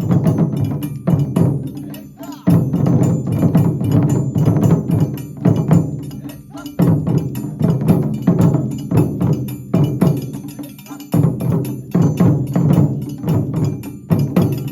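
Japanese taiko drum ensemble playing a fast, driving rhythm of many strikes, with sharp clicking strokes over the deep drum hits. The playing comes in repeating phrases of about four and a half seconds, each starting loud after a brief dip.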